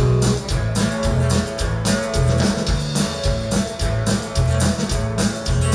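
Live country band playing a slow song's instrumental intro: guitar and bass over a steady beat.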